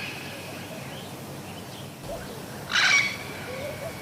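A parrot giving one loud, harsh screech about three seconds in, lasting about half a second, with faint chirps from other birds around it.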